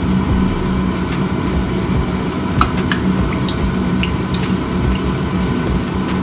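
Food frying in hot oil, with scattered small crackles and pops over a steady low hum.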